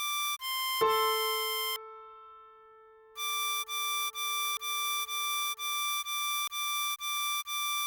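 Ten-hole diatonic harmonica playing a slow melody line: a note repeated in quick even pulses, a lower note that starts sharply about a second in and fades, a brief pause, then another run of the same repeated note.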